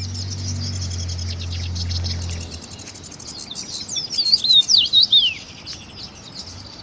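Small birds calling in a tree: rapid high twittering throughout, then from about four seconds in a run of loud, quick whistled calls that sweep down in pitch. A low steady hum sounds under the first couple of seconds and cuts off suddenly.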